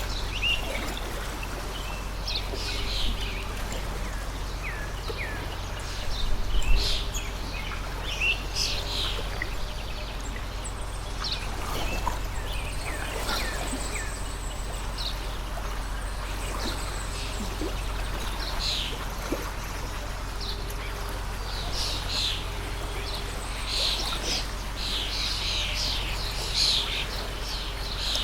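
Many birds chirping over the steady rush of a water stream, with one brief low thump about a quarter of the way in.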